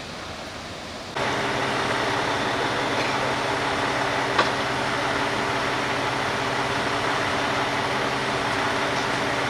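A faint hiss, then about a second in a vehicle engine cuts in, running steadily at idle with an even hum; a single sharp click near the middle.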